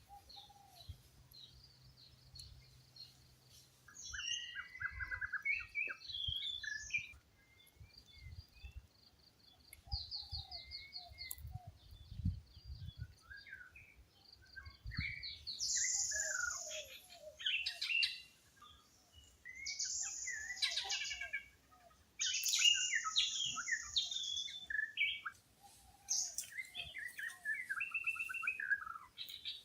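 Several birds chirping and calling at once: a run of quick high pips in the first half, then louder overlapping whistles and chirps from about four seconds in.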